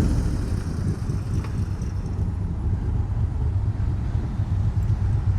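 A car engine running close by with a steady low rumble, with wind noise on the microphone.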